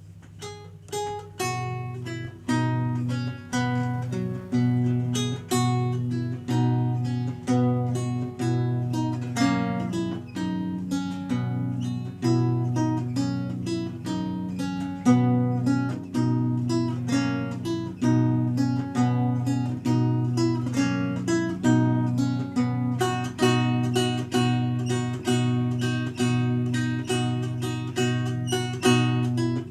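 Renaissance lute played solo: plucked notes begin about a second in and run on as a piece, a low bass note struck about once a second under a moving melody.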